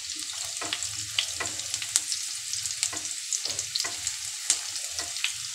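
Chopped spring onion, garlic and green chillies sizzling in hot oil in a nonstick frying pan on high heat, with scattered crackles and the scrape of a spatula stirring them.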